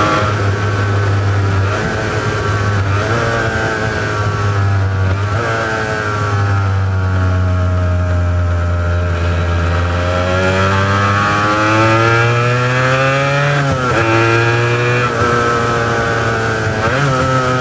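Honda NS400R three-cylinder two-stroke engine on its original mufflers, riding along: its pitch climbs under acceleration, sags and climbs again, and drops sharply at gear changes, once about five seconds in, again around fourteen seconds and near the end.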